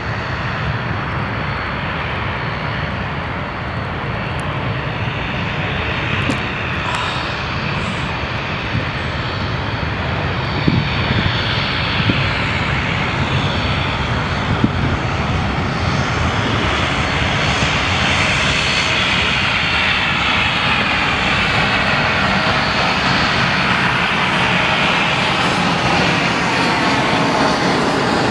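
Airliner engines running: a Boeing 737-700's jet engines mixed with the turboprop engines of a Dash 8 Q400 taxiing close by, a steady noise that grows slowly louder.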